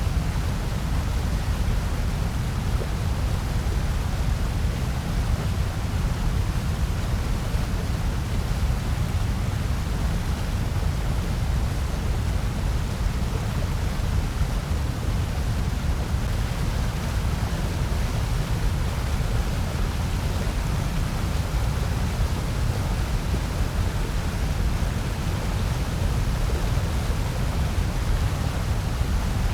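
Steady electronically generated noise, presented as white noise, with no change or events and its weight in the deep bass.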